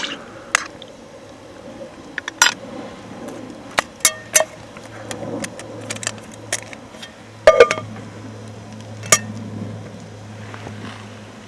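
Cookware and utensils being handled: about a dozen sharp metal and glass clinks at irregular intervals, a few ringing briefly, over a faint steady low hum.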